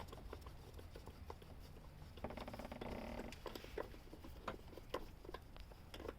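Faint, scattered clicks and light taps of tools and metal parts being handled during engine-mount removal, with a short buzzing tone about two seconds in that lasts about a second.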